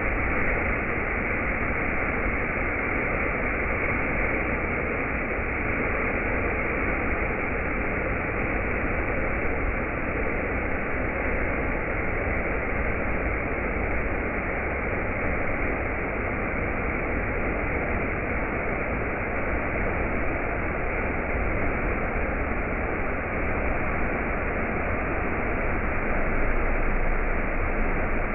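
Steady, even rushing noise that holds unchanged, with no distinct events.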